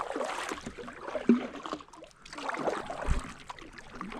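Handling noise on a fishing kayak: irregular rustling and knocks, with a sharp knock about a second in and a dull thump against the hull a little later.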